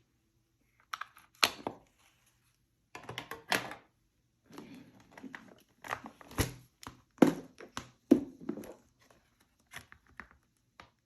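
Paper and craft supplies handled on a desk: an irregular run of sharp taps and knocks with paper rustling between them, tailing off near the end.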